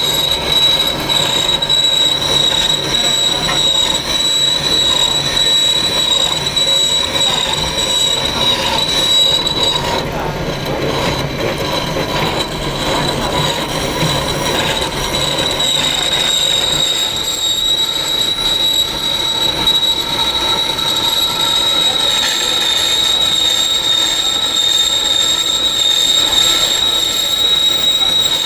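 A power tool with a spinning disc, such as an angle grinder, working stone, with a steady high whine over a rough grinding noise. The whine fades for a few seconds about ten seconds in, while the grinding gets rougher and lower, then comes back.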